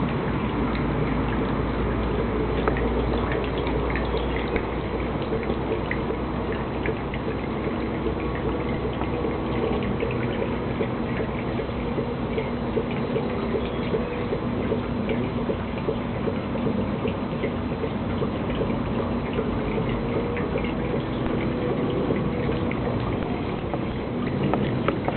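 Antique Heinrici hot air (Stirling-type) engine, 65 mm bore, running steadily: a constant hum with scattered light ticks.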